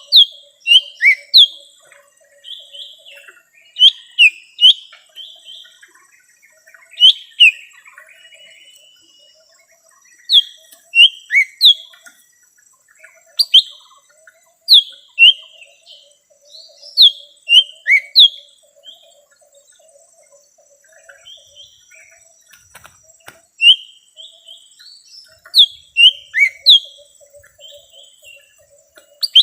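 Lesser green leafbird (cucak ijo mini) calling: short, sharp, downward-sweeping notes in quick groups of two to four, with pauses between groups. A faint, rapid low chatter runs underneath.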